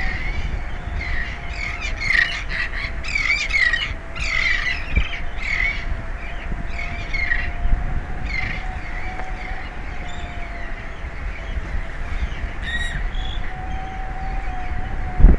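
Seabirds calling in a run of short repeated calls, dense over the first half and sparser later, over a steady faint hum and the low rumble of wind. A single sharp thump at the very end.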